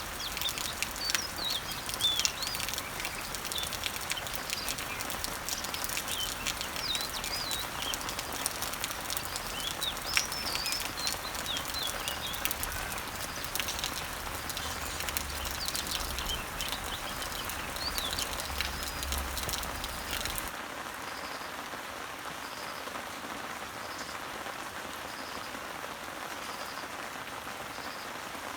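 Rain pattering on leaves, with birds chirping in short rising and falling calls. About twenty seconds in the sound changes abruptly: the chirping stops and a quieter, even rain hiss goes on with a faint high note repeating about once a second.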